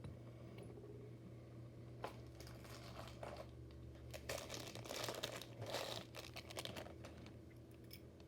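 Small hard objects being handled: crinkling rustle and light clicks, busiest in the middle, over a steady low hum.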